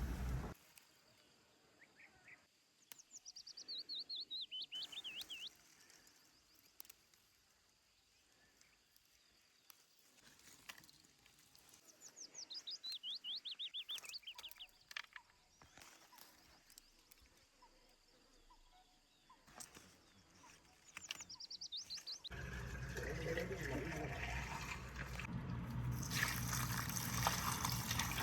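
A songbird sings three times, each a quick trill that falls in pitch, about nine seconds apart. About 22 seconds in, the sound of running water starts and goes on steadily.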